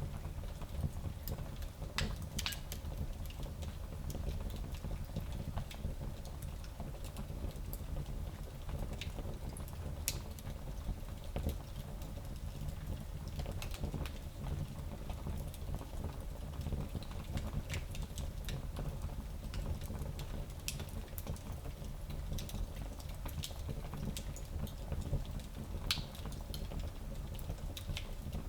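Wood fire in a small fireplace crackling, with sharp pops and snaps at irregular intervals over a steady low rumble of the flames.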